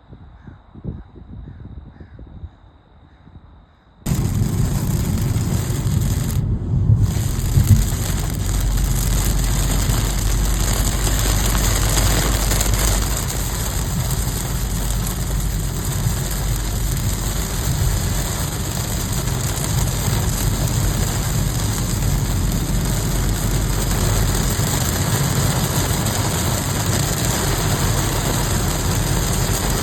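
Heavy rain: a loud, steady hiss that starts abruptly about four seconds in, with a low rumble under it.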